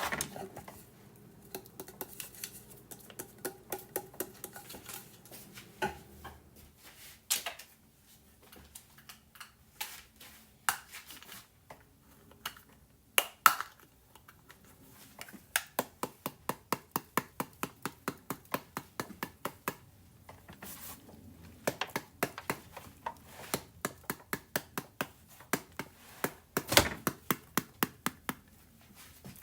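Knife chopping on a cutting board in quick even runs of strikes, about three or four a second, broken by pauses and a few louder knocks and clinks.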